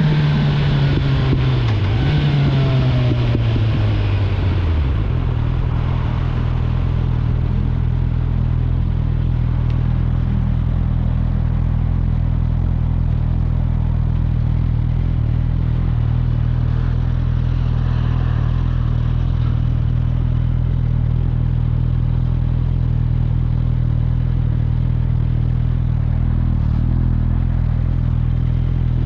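Suzuki GSF 650 Bandit's inline-four engine through an Akrapovic exhaust, its note falling as the bike slows, with a short blip about two seconds in. From about five seconds in it settles to a steady idle.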